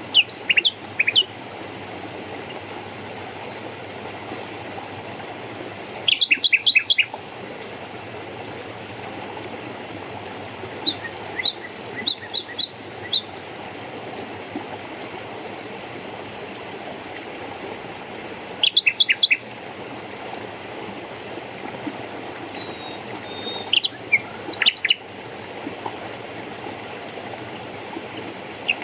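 A songbird repeating the same short song about every six seconds: a thin falling whistle, then a quick run of sharp notes. Under it runs the steady rush of a stream.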